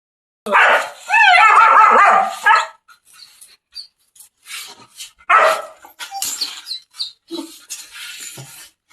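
German Shepherd barking and yelping, with high wavering whines in a loud burst over the first couple of seconds, then another sharp bark about five seconds in and quieter scattered yips and noises after it.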